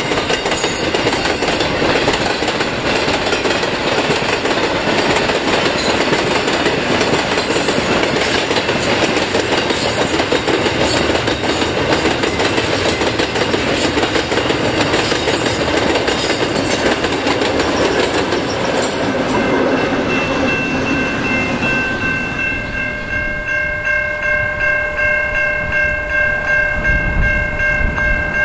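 Loaded freight wagons rolling past close by, steel wheels clicking and rumbling on the rails, with the trailing diesel locomotive at the tail. From about 20 seconds in, a diesel locomotive's multi-tone air horn sounds one long steady chord as it approaches.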